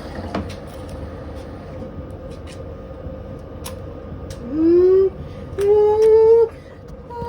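Washing machine running with a steady hum and one constant tone, with scattered clicks. About four and a half seconds in, and again about a second later, two loud pitched tones sound: the first rises, the second holds steady for nearly a second.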